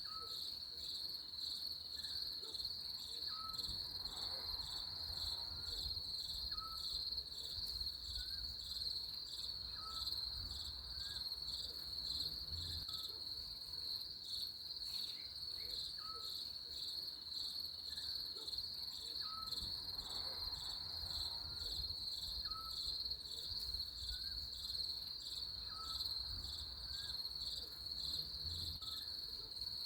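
Crickets trilling steadily in a high, fast-pulsing chorus, with small short chirps repeating about once a second beneath it and a faint low rumble.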